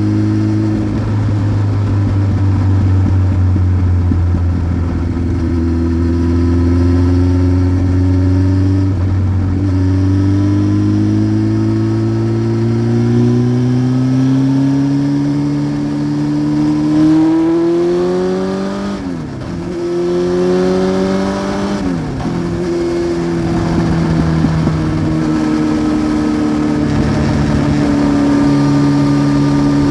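1993 Honda CBR900RR Fireblade's inline-four engine through a Remus exhaust, under way and pulling through the gears. The pitch climbs steadily and drops at a gear change about nine seconds in. It climbs harder again, then drops twice in quick succession as the rider shifts or rolls off, and settles to a steady cruise near the end.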